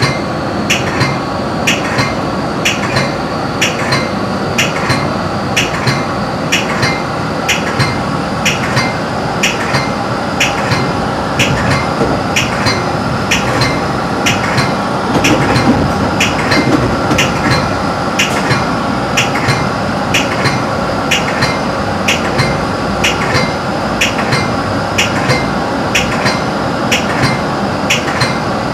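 Metra commuter train rolling along the track, heard from inside the cab car: a steady rumble with a sharp click about twice a second, the wheels passing over rail joints.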